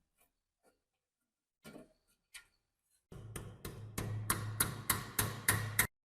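A few scattered light knocks, then a low hum with sharp mechanical clicks about three a second for nearly three seconds, stopping suddenly.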